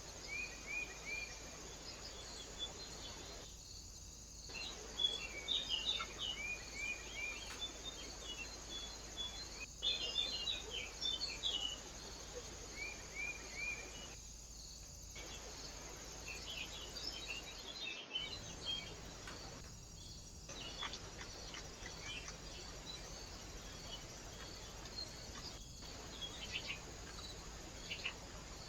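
Small birds chirping and calling, with quick runs of three or four falling notes and scattered short chirps, over a steady high insect-like hiss. The sound drops out briefly several times.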